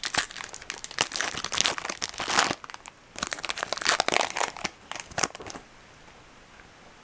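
Foil trading-card pack wrapper crinkling as it is handled, in two spells of about two and a half seconds each with a short break between, then quiet.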